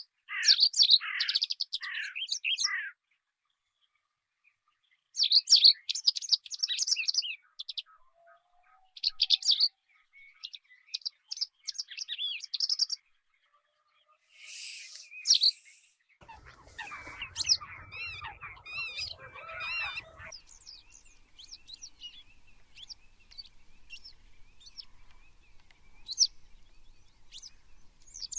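Songbirds singing: short bursts of quick, high chirping phrases with brief pauses between them. Past the midpoint several birds call at once over a low rumble, then a steady run of rapid chirps follows.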